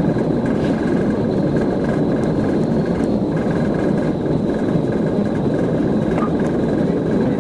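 Steady rushing noise of a vehicle in motion during a police pursuit, with a faint pulsing high tone running through it.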